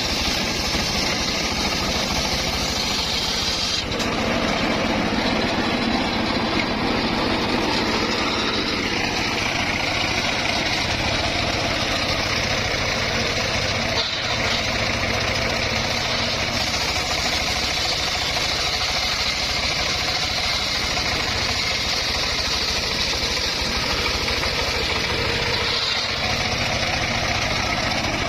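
Engine-driven circular sawmill running steadily as it cuts through a log, with a clear change in its sound about four seconds in.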